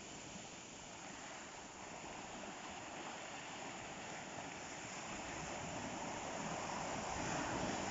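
Ocean surf: waves washing on the shore as a steady rush that slowly builds as a wave comes in near the end.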